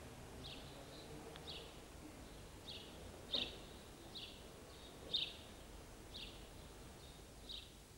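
A small bird chirping: short falling notes repeated about once a second, faint over a low background hiss.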